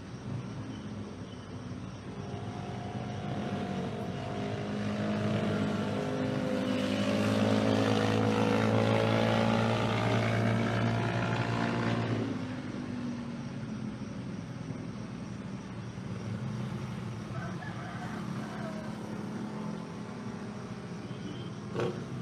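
An engine passes close by, building up over several seconds, loudest around the middle, then dropping away abruptly. A steady low background hum continues, with a short knock near the end.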